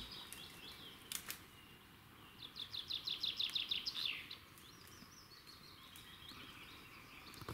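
Songbirds singing in spring woodland. The loudest is a fast trill of repeated high notes from about two and a half to four seconds in, ending in a falling flourish, with softer phrases from other birds around it. Two short clicks come about a second in.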